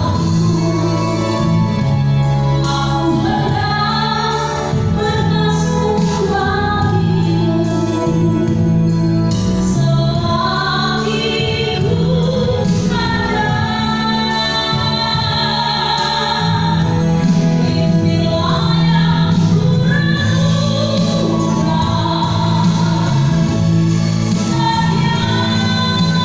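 A woman singing over music with keyboard accompaniment.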